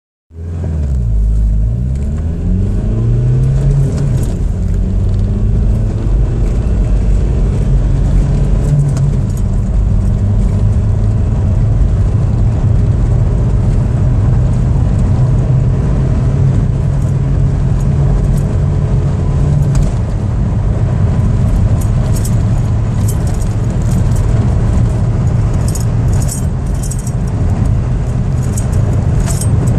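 Skoda Octavia 1.9 TDI (ALH) four-cylinder turbodiesel under hard acceleration, the engine note rising steeply over the first few seconds and then pulling on through the gears. Light jingling rattles join in over the last several seconds.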